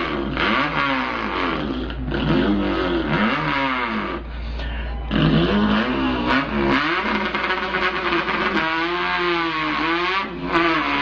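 A man imitating an import car's engine with his voice: the pitch climbs in repeated revs, drops and climbs again as if shifting gears, with short breaks for breath and a wavering hold near the end.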